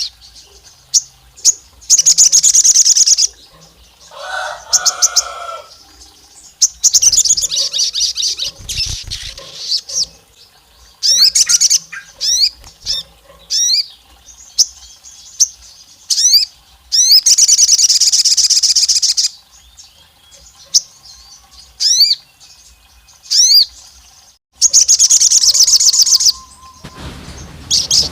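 A sogon songbird singing loudly. It gives repeated fast, high trills lasting one to two seconds each, mixed with short, sharp whistles that sweep upward. This is the wild, excited song that keepers call gacor.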